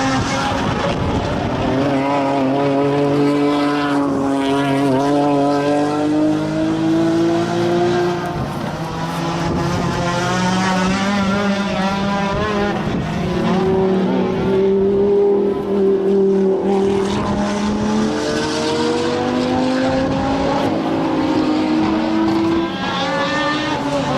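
Sport compact race cars' engines running hard, more than one at once, their pitch climbing and dropping repeatedly as they accelerate, shift and lift.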